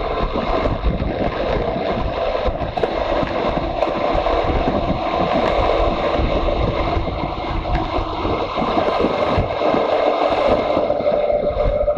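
Motorcycle engine running steadily while riding, with wind rushing and buffeting over the microphone.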